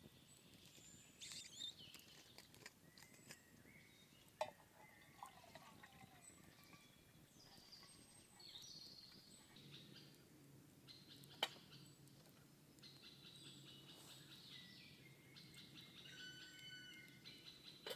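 Faint woodland birdsong: scattered chirps and trills from several birds, busier in the last few seconds. Two sharp clicks stand out, about four seconds in and again after eleven seconds.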